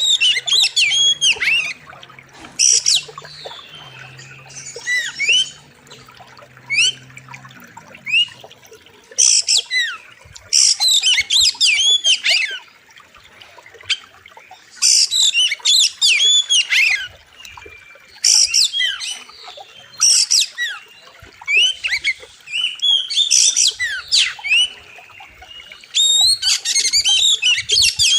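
Oriental magpie-robin (kacer) singing loudly: bursts of rapid, sharp whistles sweeping up and down, a new phrase every second or two, its song full of mimicked notes. A faint low hum sits under the first eight seconds.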